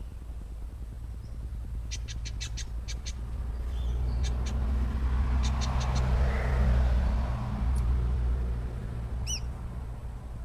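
A vehicle passing by, its low rumble swelling to a peak midway and then fading. Over it, birds call: two short runs of rapid sharp chips, and a brief falling chirp near the end.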